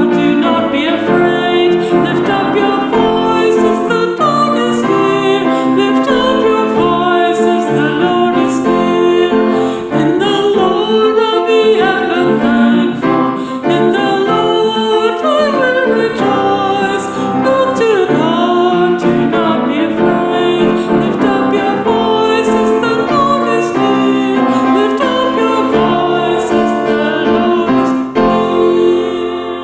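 A Taizé chant sung over piano or keyboard accompaniment, the singing voice gliding between long sustained notes, beginning to fade near the end.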